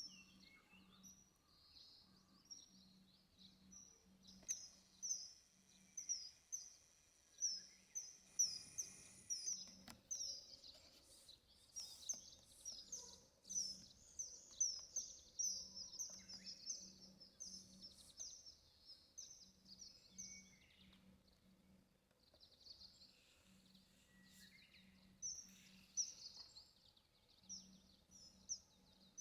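Bird calling in long runs of short, high chirps, several a second, with a lull a little past the twenty-second mark before the calls resume. A faint low pulsing sits underneath.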